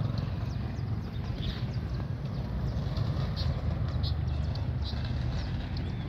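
Short, high bird calls repeated about once a second, the alarm calls of parent birds defending their chick, over a steady low rumble.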